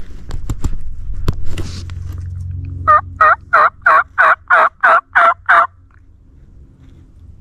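Wild turkey yelping: a run of about nine evenly spaced, loud yelps, roughly three a second, after a few sharp clicks.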